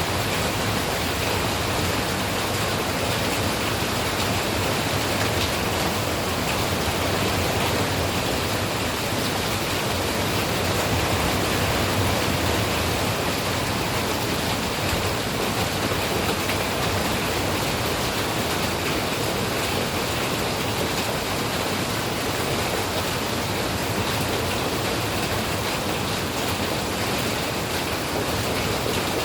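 Steady rainfall, an even unbroken hiss of rain with no distinct drops, thunder or other events.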